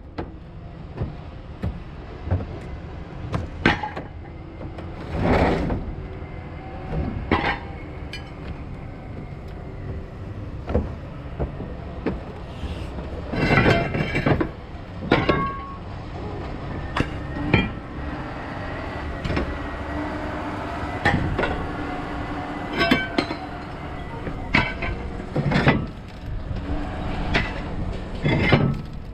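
Heavy machinery running steadily while metal is torn and broken up, with about a dozen irregular sharp bangs and crunches of a truck body being scrapped.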